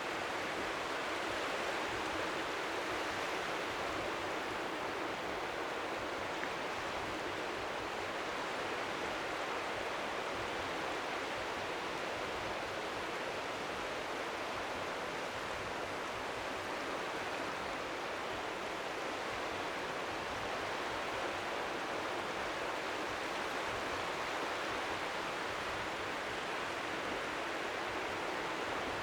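Strong sea wind making a steady, even hiss, with small waves lapping faintly on the shore beneath it.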